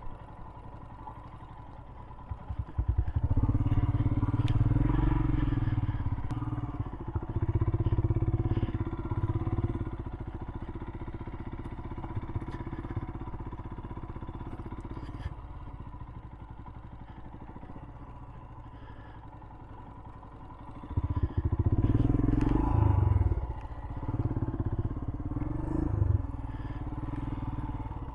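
Royal Enfield Himalayan single-cylinder motorcycle engine ticking over, then pulling hard in a low gear from about three seconds in. It eases back to a steady run around fifteen seconds and pulls hard again a little after twenty seconds, with some clatter and knocks from the bike.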